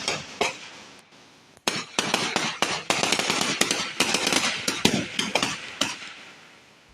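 Rifles fired in rapid succession down a line of ranks, a ceremonial feu de joie with blank rounds, heard as a rippling run of sharp cracks. One run dies away in the first half-second, and the next starts just under two seconds in and rattles on for about four seconds before thinning out.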